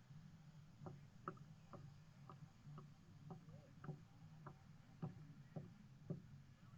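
Faint ticking, about two short clicks a second, over a low steady hum.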